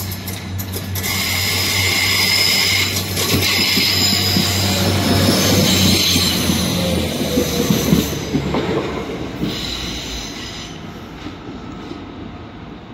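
A Transport for Wales diesel multiple unit runs past along the platform. Its engines drone steadily and its wheels squeal on the curved track, loudest in the middle. The sound fades as the train draws away near the end.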